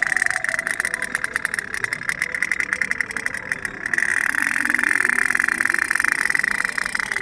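Tin pop-pop steam toy boat running on water, its flame-heated boiler making a rapid, even pulsing putt-putt.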